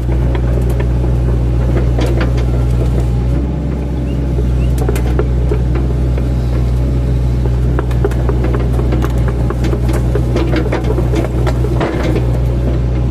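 Mini excavator's diesel engine running steadily under load, with scattered sharp cracks and knocks as the bucket chops into an oil palm trunk.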